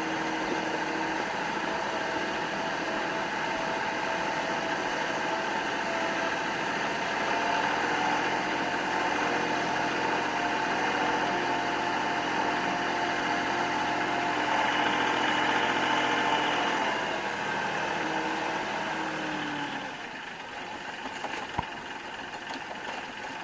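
Kubota L3560 tractor's four-cylinder diesel engine running steadily. Near the end its note slides down and it gets quieter, as the engine slows.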